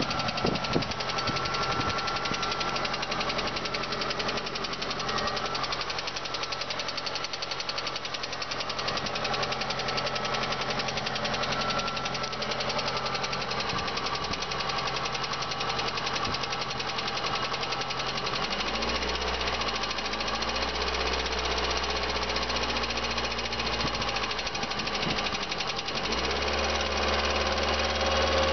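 VAZ 2112 16-valve inline-four engine running with a fast, steady knock from inside the engine. The low engine drone shifts about two-thirds of the way through and again near the end.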